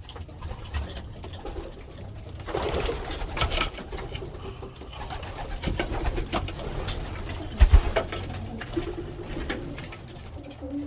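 Racing pigeons cooing in a loft, with scattered clicks and a loud low thump about eight seconds in.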